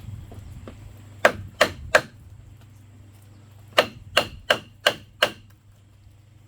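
Hammer blows on bamboo: three quick strikes, a pause, then five more at about three a second.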